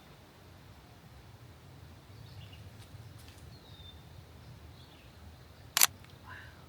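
Faint wild bird calls: two short descending whistles and a few scattered chirps over a low outdoor rumble. One sharp, loud click near the end.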